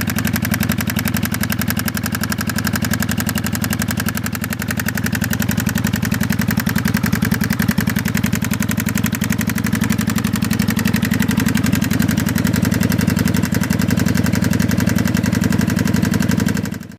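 1995 Kawasaki Vulcan 750 V-twin engine idling, with a persistent mechanical noise that new manual cam chain tensioners have not cured and whose cause the owner has not found. The sound cuts off at the very end.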